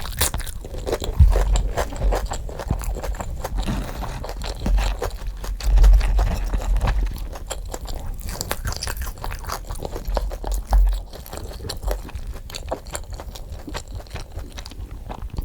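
Close-miked eating: crunchy food being bitten and chewed, a dense run of sharp crunches with a few heavy low thuds.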